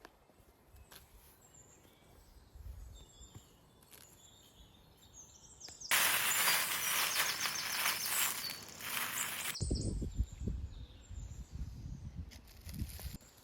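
Birds chirping faintly over outdoor background noise. About six seconds in, a loud steady hiss cuts in abruptly and stops just as suddenly about three and a half seconds later. After that come low rumbling bumps like wind on the microphone.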